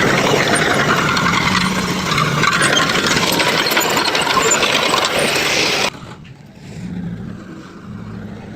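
A heavy machine's engine running loudly with dense clattering noise. About six seconds in, the sound cuts off abruptly to a quieter, steady engine hum.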